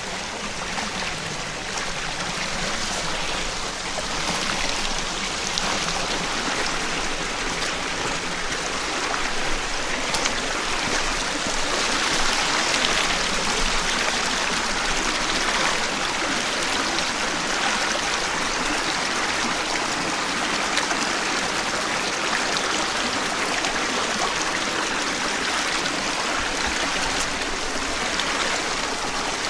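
Mountain headwater stream running over rocks: a steady, even rush of flowing water.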